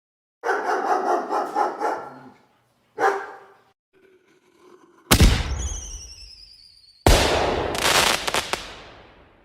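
A dog barking in quick bursts, then two sudden loud bangs a couple of seconds apart, the second followed by crackling, as from fireworks.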